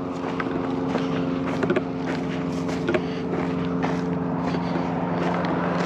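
Steady drone of a heavy engine working at constant speed, holding one pitch throughout, with some wind on the microphone.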